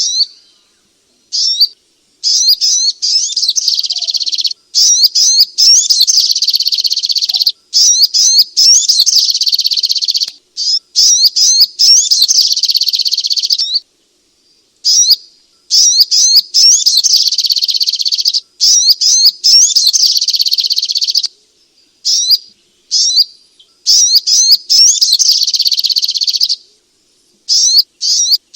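Sogok ontong (little spiderhunter) song: rapid, high-pitched chattering runs lasting several seconds each, broken by short pauses.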